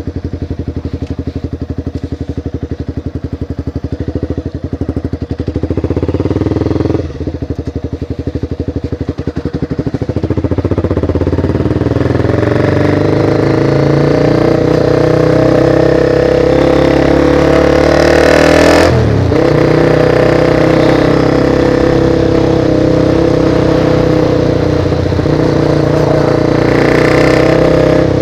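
Motorcycle engine running with a quick, even pulse, then accelerating from about ten seconds in, its pitch climbing. A gear change near nineteen seconds drops the pitch suddenly, and the engine then runs on steadily under load.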